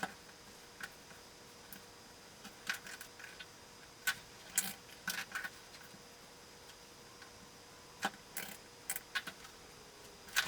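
Scattered light clicks and taps, a dozen or so at irregular intervals, over a quiet room background: small objects being handled.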